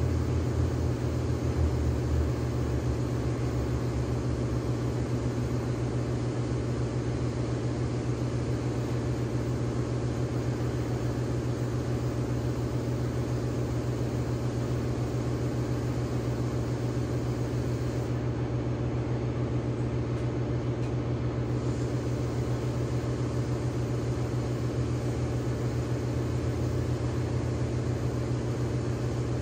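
Steady machinery hum with an even hiss over it, like a fan or motor running without a break; the hiss thins out briefly a little past halfway.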